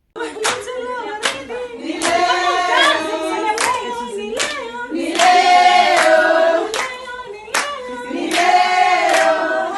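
A group of voices singing together with steady hand claps keeping time, a little more than one clap a second; the song starts abruptly.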